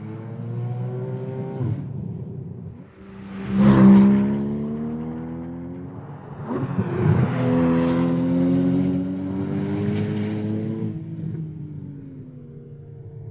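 2013 Porsche Cayman S's 3.4-litre flat-six at full throttle on track, revving up with rising pitch and loudest about four seconds in, then falling in pitch. It climbs again from about seven seconds and dies away after about eleven.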